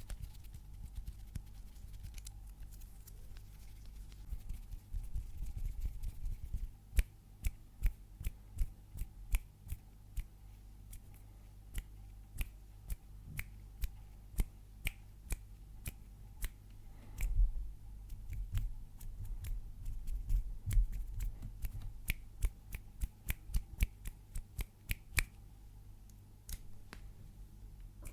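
Fingernails clicking and tapping close to the microphone: many short, sharp clicks at an irregular pace of several a second, starting about seven seconds in and stopping near the end.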